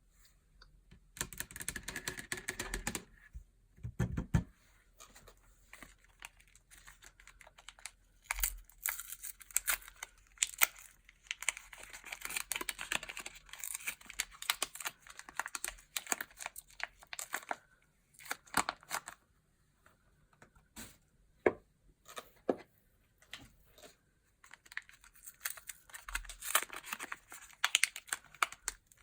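Packaging on soap bars being torn open and crinkled by hand: irregular bursts of crackling and rustling with short pauses, and a soft thump about four seconds in.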